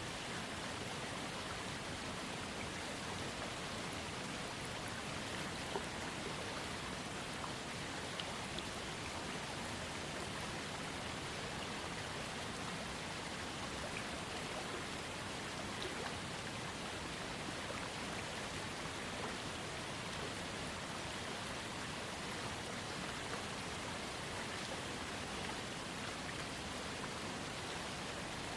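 Small waterfall on a trickling creek: a steady, unbroken splashing of falling water, with a few sharper drops standing out now and then.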